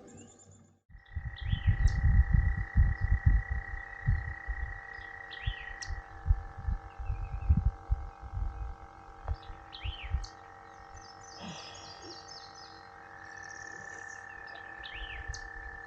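A small electric motor on the boat starts about a second in and runs with a steady whine; its pitch drops slightly about six seconds in and comes back up near the end. Low thumps and knocks come and go over the first ten seconds, and birds chirp several times.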